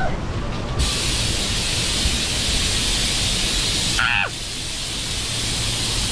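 Loud, steady hiss of rushing water that starts abruptly about a second in and cuts off just as abruptly at the end. A short falling squeal comes about four seconds in.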